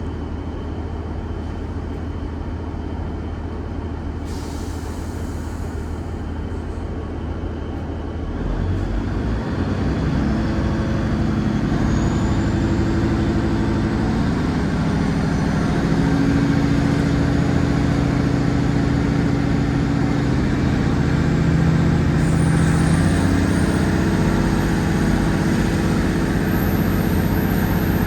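Class 150 Sprinter diesel multiple unit's underfloor Cummins diesel engines ticking over, then opening up hard about eight seconds in as the train pulls away. The sound grows louder and the engine note steps up higher as it accelerates.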